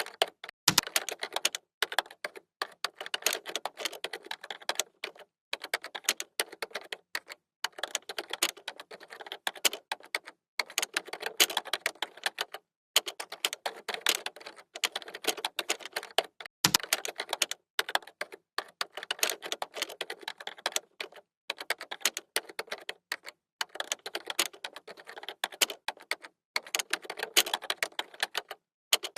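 Typing on a computer keyboard: fast runs of key clicks broken by short pauses every couple of seconds, with two heavier, deeper key strikes, one near the start and one about halfway through.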